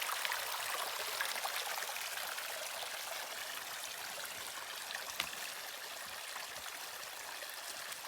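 Creek water running, a steady rushing that gradually gets quieter, with a few faint ticks.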